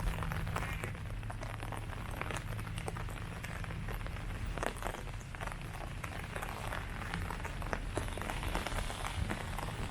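Steady rain falling, with many separate drops pattering on leaves over a constant low rumble.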